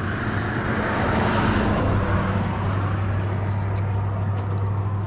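Motorcycle engine and road noise, with a rush that eases over the first two seconds and then settles into a steady low engine hum.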